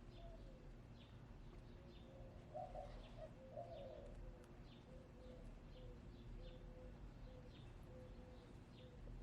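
Faint birdsong: a small bird repeats a short high chirp about every two-thirds of a second, over soft low calls that are strongest between about two and four seconds in.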